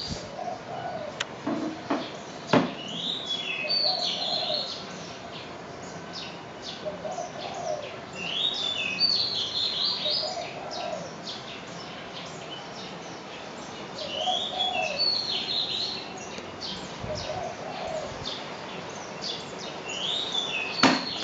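Birds calling: a high chirping phrase repeated about every five seconds, with a lower cooing call coming back roughly every three seconds, over a faint steady background hum.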